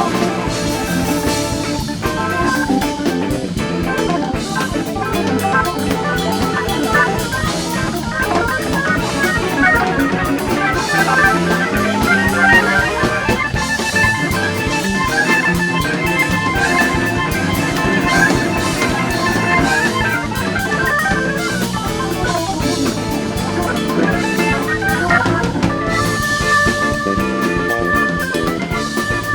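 Live instrumental band performance: an electric guitar plays a sustained, gliding lead over a busy drum kit and organ.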